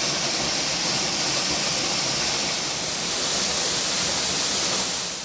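Waterfall's steady rush of falling water, fading out at the very end.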